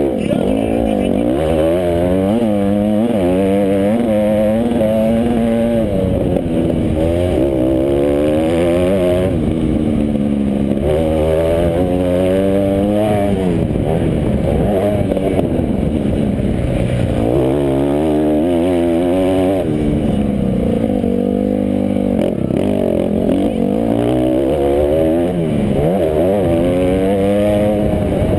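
Motocross bike engines racing, their pitch rising and falling over and over as the riders open and close the throttle, with more than one bike heard at once.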